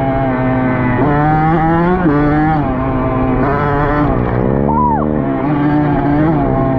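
Dirt bike engine under way, its pitch climbing and dropping back several times as the throttle is worked and the bike shifts.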